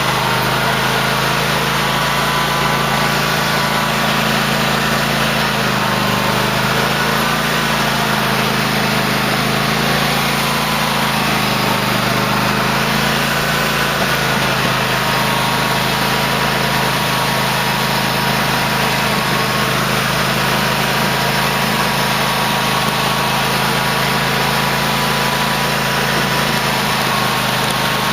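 Cub Cadet LT1050 lawn tractor engine running steadily while plowing snow, its pitch dipping slightly a few times around the middle.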